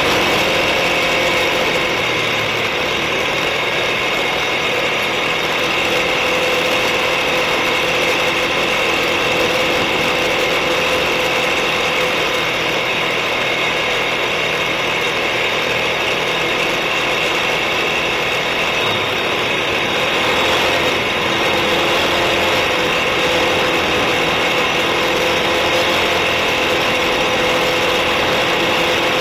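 Suzuki KingQuad ATV engine running steadily, with a dense mechanical whine.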